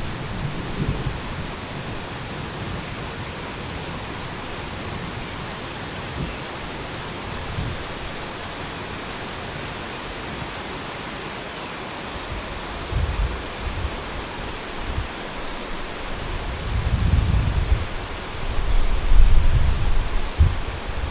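Heavy rain pouring steadily as an even hiss. Low rolls of thunder rumble in about two-thirds of the way through and grow stronger near the end.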